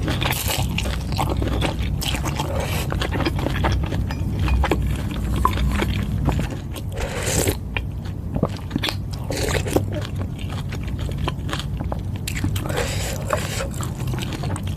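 Close-miked eating sounds: chewing a mouthful of Thai boat noodles, with many small wet mouth clicks and a few short noisy bursts, over a steady low hum.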